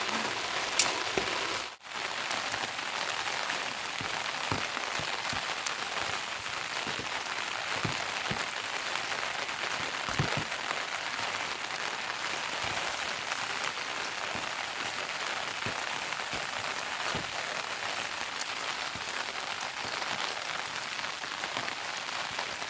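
Heavy rain falling steadily, an even hiss with scattered individual drop ticks and one sharper tap about a second in.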